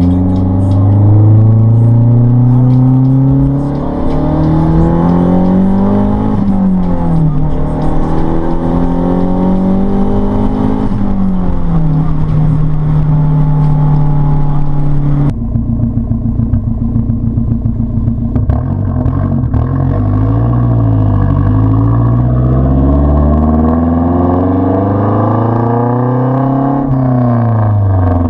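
Straight-piped Mazdaspeed3's turbocharged 2.3-litre four-cylinder running with no cats or mufflers, its exhaust note climbing slowly and then dropping sharply, twice in a row, the way it does under acceleration through gear changes. About halfway through it cuts to another recording, where the note dips, climbs steadily and drops sharply again near the end.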